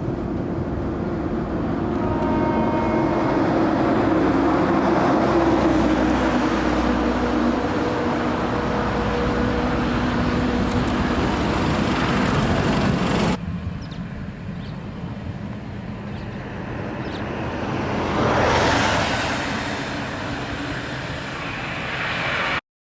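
Narrow-gauge sugar cane train running past: a diesel locomotive's engine and cane wagons rolling on the rails, loudest about five seconds in. The sound cuts abruptly to a quieter rumble partway through, swells once more briefly near the end, then stops dead.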